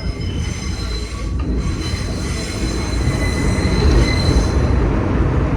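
Vintage subway train's wheels squealing on the rails in several high, thin tones over the steady low rumble of the running train. The squeal fades out near the end.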